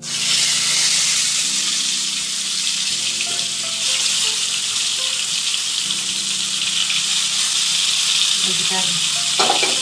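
Pointed gourds (potol) deep-frying in hot oil in a kadai: a steady sizzle that starts suddenly as they go into the oil and keeps up without a break.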